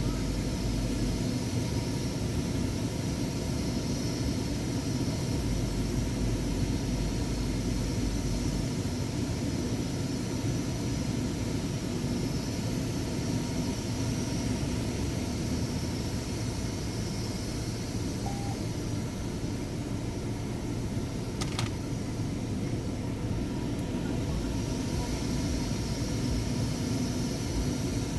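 Steady drone of a car and car wash machinery heard from inside the car's cabin, with a single short click about 21 seconds in.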